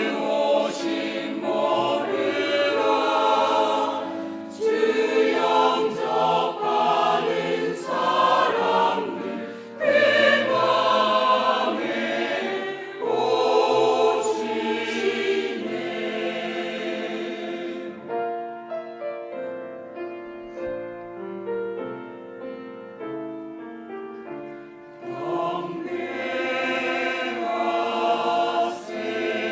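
Church choir singing a Christmas cantata with accompaniment. About two-thirds of the way through the voices drop out for a short stretch of accompaniment alone, then the choir comes back in.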